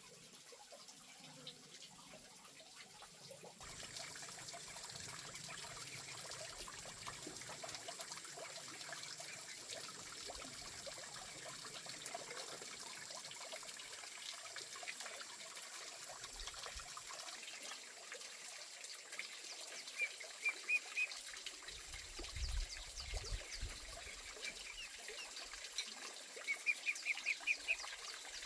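Water trickling steadily. In the second half a bird gives quick runs of short, high chirps, with a few dull low thumps about three quarters of the way in.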